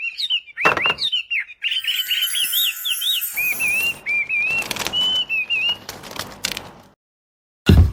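Small bird chirping in a quick run of short calls, with wings flapping among them; the chirping stops about seven seconds in, and a short low thump follows near the end.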